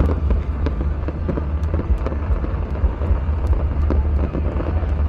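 Fireworks display: scattered sharp pops and crackles over crowd noise, with a steady low rumble underneath.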